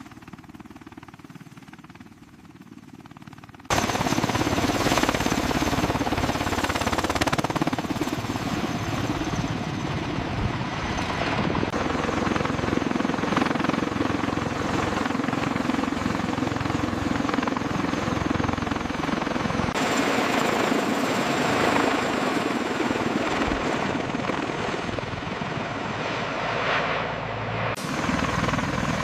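Helicopter rotor and turbine engine noise, loud and steady. It cuts in suddenly about four seconds in, after a quiet low hum, and its sound shifts abruptly a few times.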